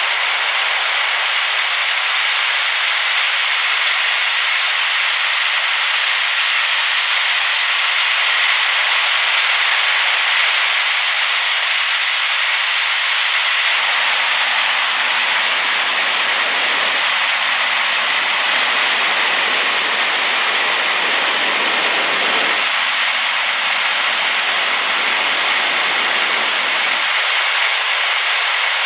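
Rain-swollen waterfall making a loud, steady rushing hiss with no breaks. A deeper layer of the rush comes in about halfway and drops away near the end.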